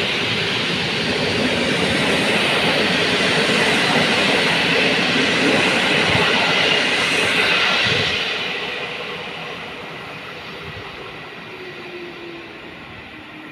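A train running past on the rails, a loud rush of wheel and rail noise that dies away from about eight seconds in as it moves off.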